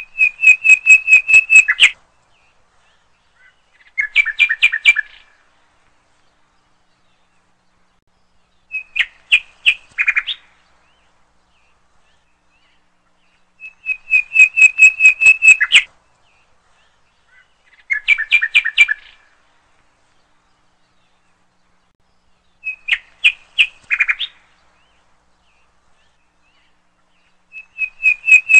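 A bird chirping in short phrases of rapid high notes, one phrase every four to five seconds with silence between. The same three phrases come round again in a steady cycle, like a looped recording.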